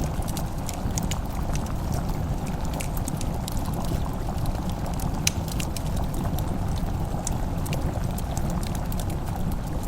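Fireplace crackling: sharp, irregular pops and snaps over a steady low rumble of the burning fire.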